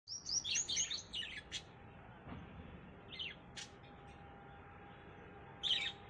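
A small bird chirping: a quick run of high, downward-sliding chirps, then two sharp ticks, a single chirp about three seconds in and a louder one near the end.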